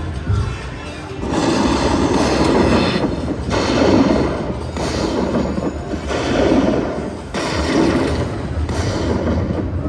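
Slot machine's game sound effects playing through a spin or bonus sequence: a loud run of noisy, rumbling swells repeating about once a second, over a steady low rumble.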